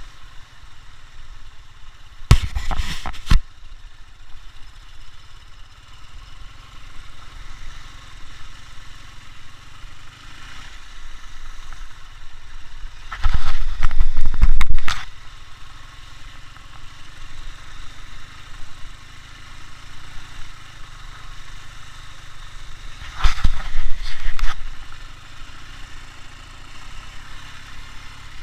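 Ural motorcycle's flat-twin engine running steadily, with three loud bursts of noise about two, thirteen and twenty-three seconds in, each lasting a second or two.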